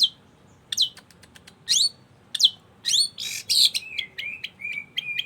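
Long-tailed shrike (cendet) singing loudly: a string of sharp calls that sweep down in pitch, then a harsh rasping burst about three seconds in, followed by a quick run of short chattering notes.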